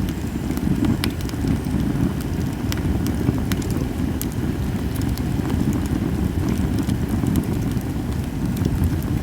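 Japanese cedar campfire crackling, with sharp pops scattered irregularly over a steady low rumble.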